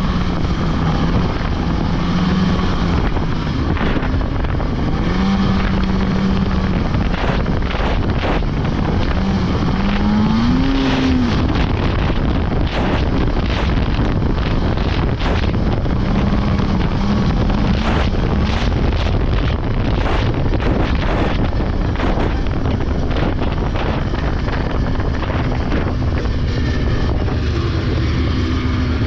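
Polaris 600 two-stroke snowmobile engine running under way, its pitch rising and falling with the throttle, with wind on the microphone and many short, sharp cracks or knocks through the middle part of the ride.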